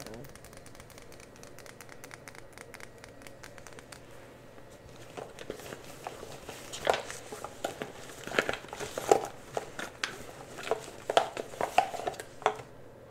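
Close-up crinkling and crackling of something being handled, starting as faint rapid clicks and growing into louder, sharp crinkles in the second half.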